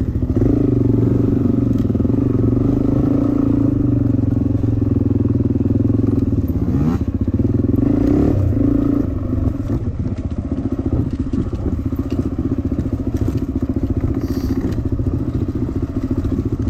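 Dirt bike engine running hard as the bike is ridden, its pitch shifting a little with the throttle, with a quick rise around the middle. It eases off slightly about nine seconds in.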